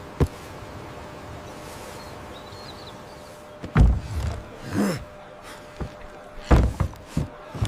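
Several heavy thumps and knocks over a steady low background. The loudest come about four seconds in and again late on, with a sharp click just after the start.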